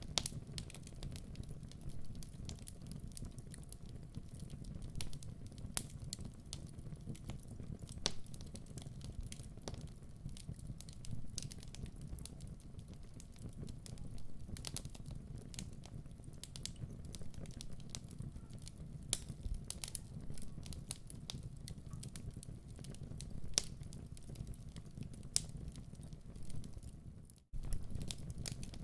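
Fireplace fire crackling: scattered sharp pops and snaps over a low, steady rumble of the flames, with a brief dropout near the end.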